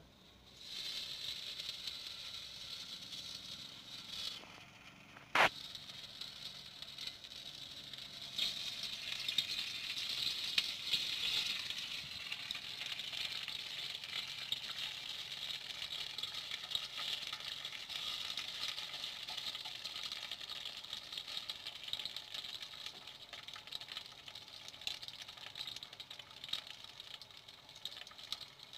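Battered food frying in hot oil in a wok: a steady sizzle full of fine crackles. There is a single sharp clack about five seconds in.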